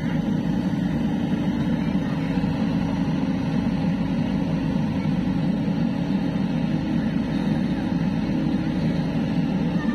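A motor running at a steady drone, unchanging throughout.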